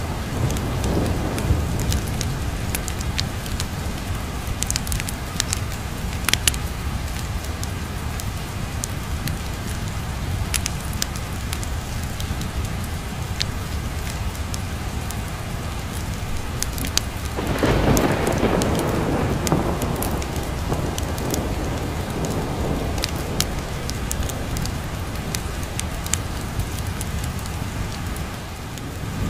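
Steady heavy rain with thunder: a deep rumble swells about two-thirds of the way in and dies away, over scattered sharp crackles.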